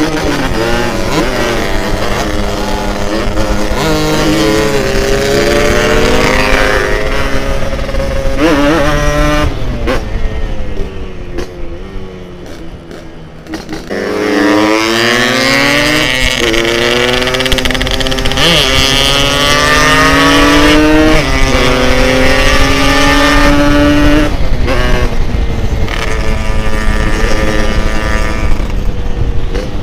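Two-stroke Yamaha RX-King motorcycle engine ridden hard: it revs up through the gears, climbing in pitch and dropping back at each shift. About ten seconds in it eases off and goes quieter for a few seconds, then pulls hard again through several more shifts, with wind noise underneath.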